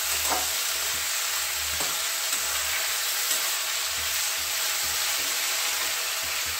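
Onion, garlic, chillies and tomatoes frying in mustard oil in a steel kadhai: a steady sizzle, with a steel spatula scraping and tapping against the pan now and then as the mixture is stirred.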